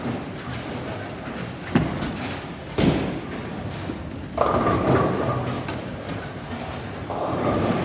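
Bowling alley noise: a steady rumble of balls rolling on the lanes, with two sharp knocks a second apart about two and three seconds in. From about four and a half seconds a louder rushing sound with a steady high tone sets in, dies down, and comes again near the end.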